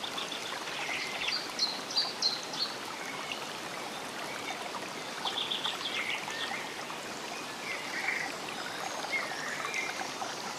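Stream running steadily, with short high chirps scattered over it, in clusters about a second in and again about five seconds in.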